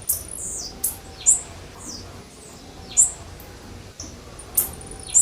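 Female blue-black grassquit (tiziu) calling: short, sharp, high chirps repeated about once a second at uneven intervals.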